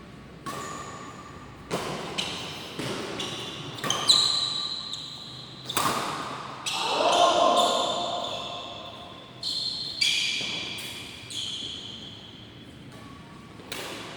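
Badminton rally in an echoing sports hall: a dozen or so sharp racket hits on the shuttlecock at an irregular pace, each ringing out in the hall's reverberation.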